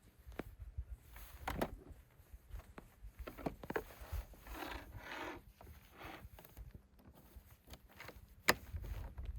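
Scattered knocks and clicks with short bursts of rustling or scraping, as of someone moving about and handling gear, with one sharp click near the end.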